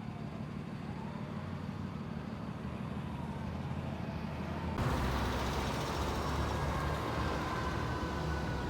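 Emergency vehicle siren over a steady low engine rumble, with the siren sweeping down and up in the first second. About five seconds in the sound jumps suddenly louder and hissier, and a long siren tone slides slowly down in pitch.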